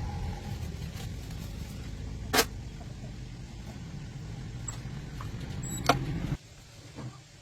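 Engine running with a steady low rumble and two sharp knocks, about 2.5 and 6 seconds in; the rumble cuts off abruptly a little later.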